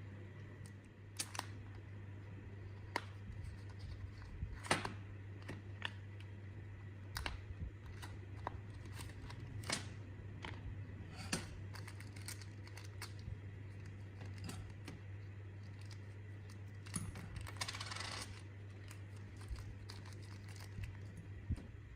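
Small metal parts and tools being handled on a workbench: irregular light metallic clicks and clinks, with a brief scrape near the end, over a steady low hum.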